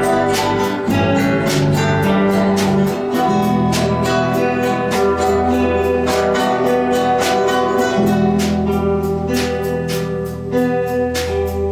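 An ensemble of acoustic guitars playing an improvisation: plucked notes struck at a steady pulse over held chords.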